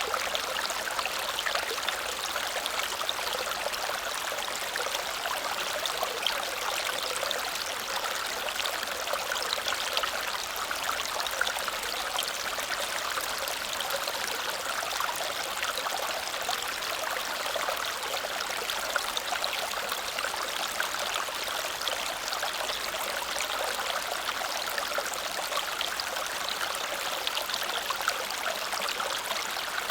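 Small waterfall splashing and cascading steadily over rocks, an even rushing of water with no change.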